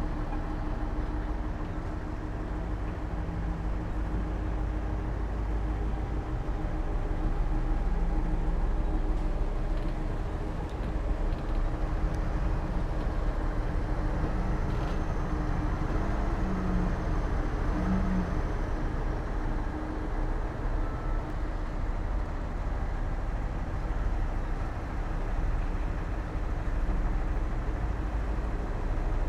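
Diesel engines of heavy earthmoving machinery running steadily under load, a continuous low rumble and hum that swells and eases a little.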